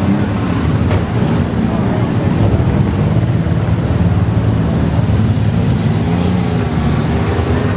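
Engines of several demolition-derby minivans running together, their pitches wavering up and down as they rev and push against each other.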